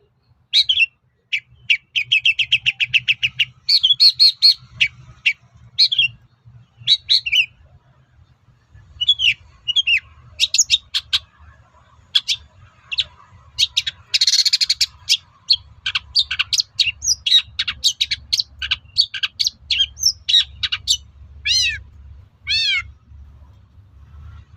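Long-tailed shrike (cendet) singing a varied, fast song of sharp chirps and whistles, with a quick even trill early in the song, a harsh rasping burst about halfway, and a run of down-slurred notes near the end. It is a lure song, the kind played to a caged shrike to make it answer and sing.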